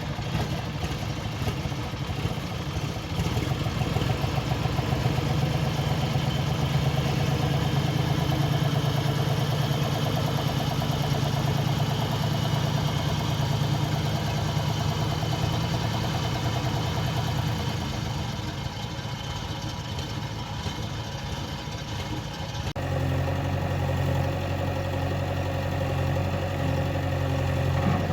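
Heavy diesel engine running, its note getting louder about three seconds in and staying strong. About 23 seconds in the sound switches abruptly to a steadier, lower engine note.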